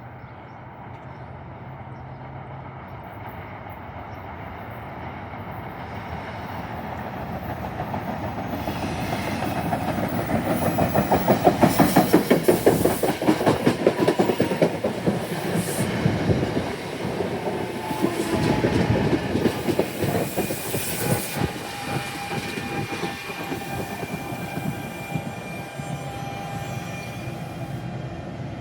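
A passenger train approaching and passing close by, its wheels clacking rhythmically over the rail joints; the sound builds up and is loudest about eleven to fourteen seconds in. A faint thin steady whine runs through the later part.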